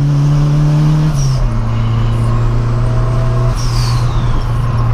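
Turbocharged VW Gol's four-cylinder engine running at steady revs, heard from inside the cabin. Its pitch dips slightly about a second in and then holds, with a faint falling whistle near the end.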